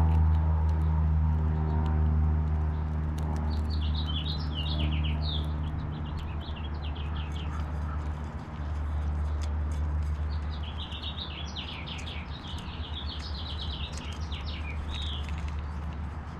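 A small bird chirping in two bursts of quick, falling notes, over a low steady hum that slowly fades. Faint scattered clicks come from a squirrel eating seeds at a seed feeder.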